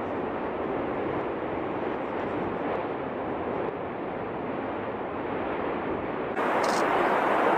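Steady rushing roar of an erupting volcano, jet-like and without pitch, turning louder and brighter about six seconds in.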